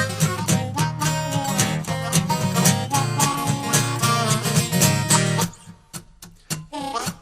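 Acoustic guitar and harmonica playing a country blues instrumental break. About five and a half seconds in the full sound drops away, leaving sparse picked guitar notes.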